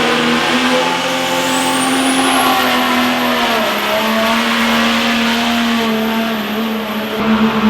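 Engine of a pulling vehicle running loud and steady; its pitch dips about three and a half seconds in. A thin high whine rises over about a second and then holds.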